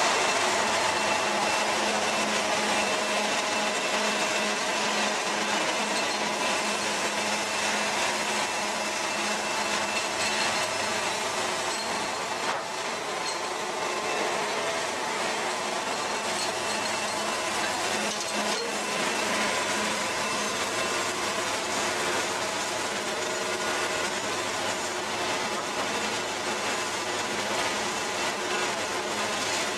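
Portable band sawmill's blade sawing through a small pine log, a steady cutting noise over the hum of the mill's engine.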